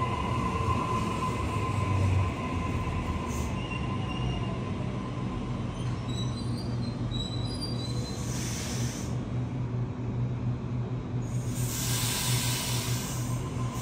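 Train running past with a steady low rumble; a thin high-pitched wheel squeal comes in about five seconds in, and two bursts of high hiss follow, one past the middle and a longer one near the end.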